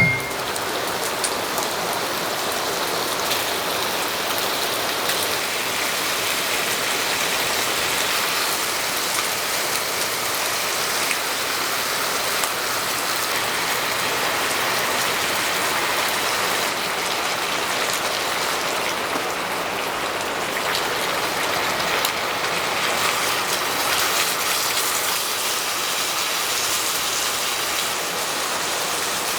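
Heavy rain falling steadily, an even, unbroken wash of drops.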